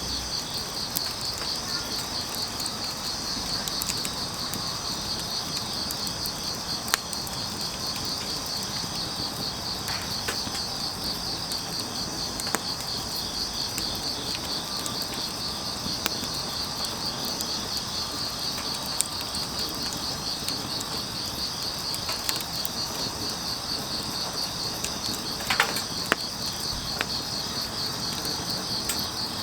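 Crickets chirping in a steady, rapidly pulsing chorus, with a sharp crackle of burning firewood every few seconds.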